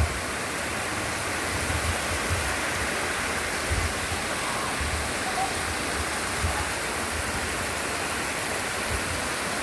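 Heavy rain falling, a steady dense hiss with irregular low bumps.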